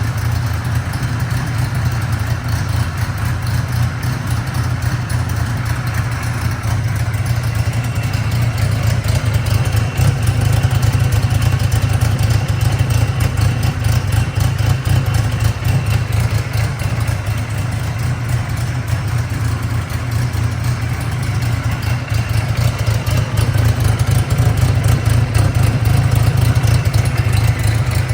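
1983 Kawasaki Z1000-R2's air-cooled inline-four engine idling steadily through a Harris exhaust system.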